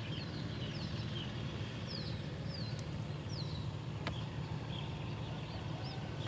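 Small bird chirping in short, high notes that fall in pitch, repeated several times, over a steady low rumble, with a single sharp click about four seconds in.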